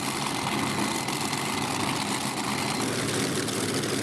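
Competition pulling tractor's engine running steadily at the start line, a dense rough engine sound without a clear rev.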